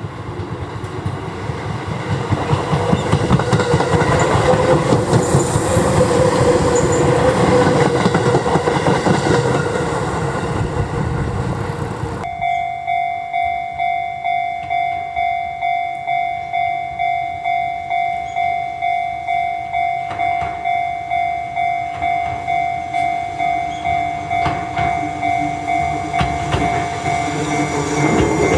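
A Seibu 9000 series electric train running past loudly, its noise cutting off suddenly about twelve seconds in. Then a railway level-crossing warning bell rings with an even ding-ding of about two strokes a second, and another train's running sound starts to come in near the end.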